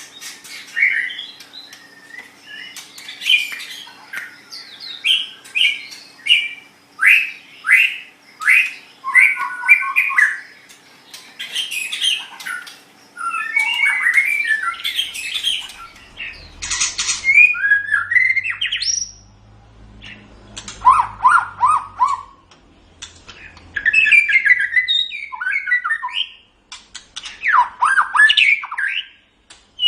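White-rumped shama (murai batu) singing a long, varied song of whistled glides and fast repeated trill notes, in phrases with short gaps between them.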